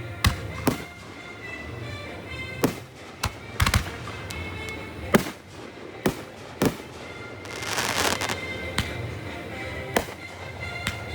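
Fireworks going off: about ten sharp bangs at irregular intervals, with a spell of hissing crackle about eight seconds in, over steady background music.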